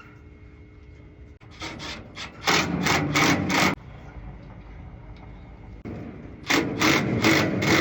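Two runs of quick, repeated rasping strokes, about four a second, each run lasting two seconds or so, from hand work on the engine.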